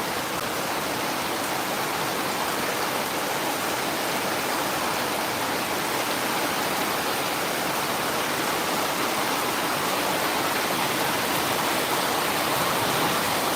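Heavy rain falling steadily: a dense, even hiss with no separate drops or breaks.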